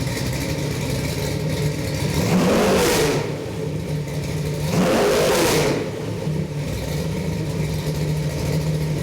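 Chevy 383 stroker small-block V8 crate engine idling after being started, blipped twice on the throttle, about two and five seconds in. Each rev climbs quickly and drops straight back to a steady idle.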